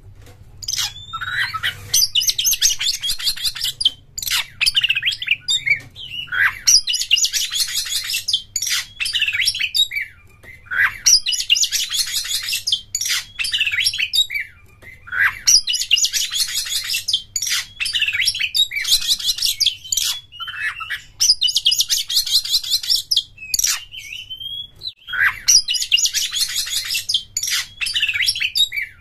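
Oriental magpie-robin (kacer) singing: about seven bursts of fast, rattling high chatter, each lasting a second and a half to two seconds, separated by single whistled notes. This is the rapid 'konslet' style of song used to provoke other kacer into singing.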